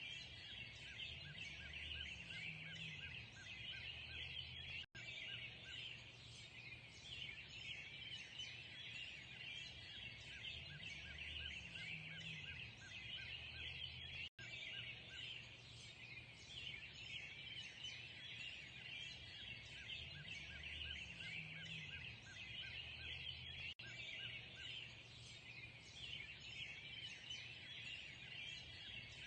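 Dawn chorus of many small birds chirping and twittering together, with a low throaty sound recurring underneath. The sound cuts out for an instant three times, at evenly spaced points, like the seams of a looped recording.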